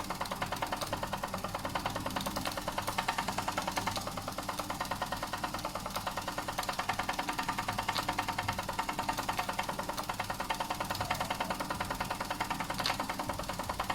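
Doll & Co 339/2 stationary model steam engine running steadily under steam, with a rapid, even beat of exhaust chuffs.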